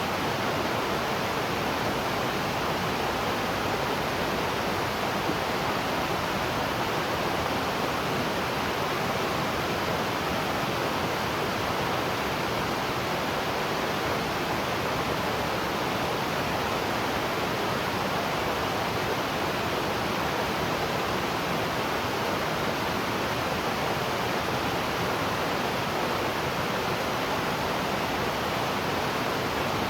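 Waterfall: falling water rushing in a steady, even roar without break or change.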